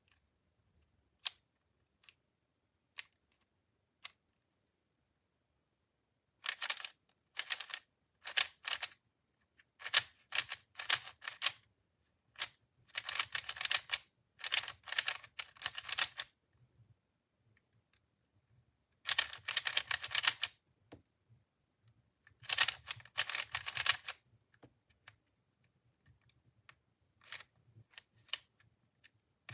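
Plastic MoYu V5 speedcube being turned by hand: a few single clicks, then bursts of rapid clacking layer turns with short pauses between them.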